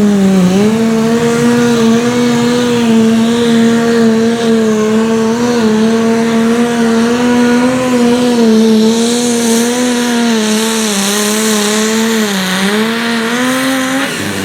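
Super stock pulling tractor's engine at full throttle under load during a pull, holding a high, steady pitch with small dips, then dropping off near the end as the run finishes.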